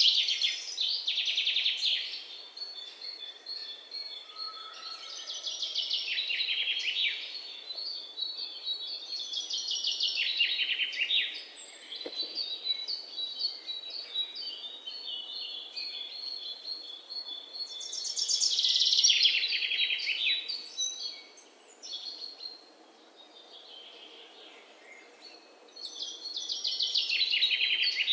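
Songbirds singing: about five loud phrases of rapid trilled notes, each about two seconds long and dropping in pitch, come every few seconds with a thin, steady high note held beneath through much of it. A quieter stretch comes near the end before the last phrase.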